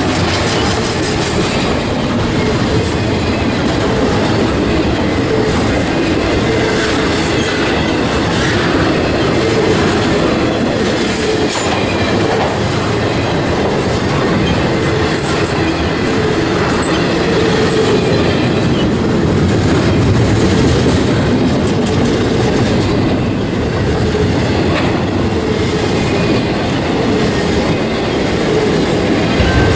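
Intermodal freight train cars, double-stack container well cars and then trailer flatcars, rolling steadily past at close range: the continuous noise of steel wheels running on the rails.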